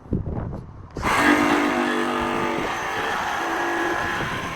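Electric power saw cutting through a bathroom wet wall panel, starting about a second in and running steadily under load.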